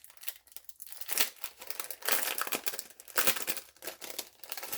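Packaging of a cutting die being handled and opened, crinkling and rustling in irregular bursts. It is loudest around two seconds in and again just after three.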